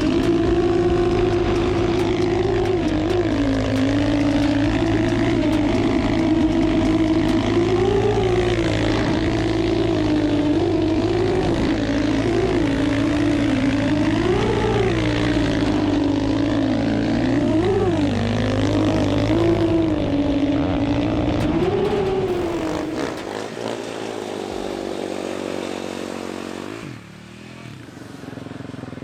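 Dirt bike engine running hard on a ski-equipped water bike riding across water, its pitch swinging up and down again and again with the throttle. About 22 seconds in it drops away and fades, and the sound cuts near the end.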